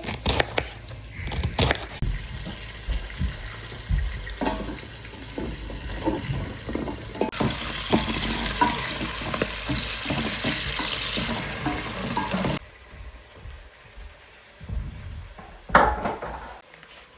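Tap water running into a sink for about five seconds, starting about seven seconds in and shutting off suddenly. Scattered knocks and clatter come before it, with one more knock near the end.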